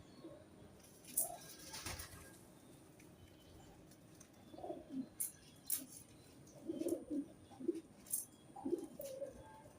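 Pigeons cooing in a run of low, warbling phrases, clustered in the second half, with a few sharp clicks and a brief rustle near the start.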